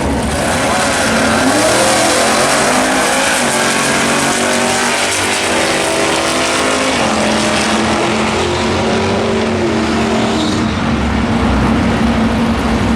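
Drag-racing cars running down the strip, loud and continuous, with the engine pitch shifting as they accelerate.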